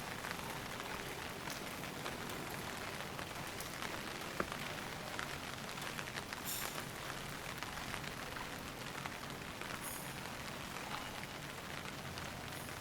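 Steady rain pattering on surfaces, with many small drop ticks in it and one sharper tick about four and a half seconds in.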